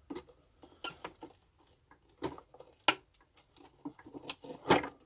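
Irregular clicks and knocks of a plastic vacuum cleaner casing being handled and worked on during disassembly, the loudest a little over two seconds in, near three seconds and near the end.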